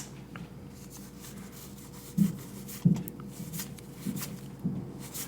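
Pokémon trading cards being slid one behind another as a freshly opened booster pack is flipped through: soft rubbing of card on card, with a few light taps.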